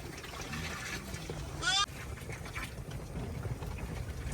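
A short animal call rising in pitch, about two seconds in, over a steady low rumble.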